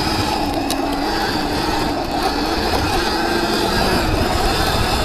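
Viper S electric dirt bike riding through mud: the electric motor whines, wavering slightly in pitch with speed, over chain and drivetrain clatter and a low rumble.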